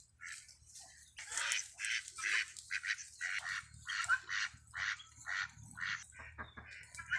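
Free-range poultry calling, short harsh calls repeated about twice a second, starting about a second in.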